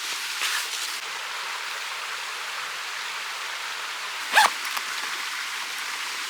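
Mountain stream running steadily, with a single short, sharp call about four seconds in.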